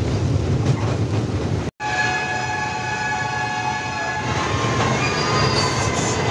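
A train running with a steady low rumble. The sound drops out for an instant just under two seconds in, and then a train horn sounds for about two seconds, several steady notes held together, over the continuing rumble.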